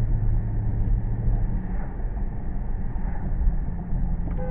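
Muscle car engine and road noise heard from inside the cabin while driving: a deep, steady rumble, with a held engine tone that fades out about a second and a half in.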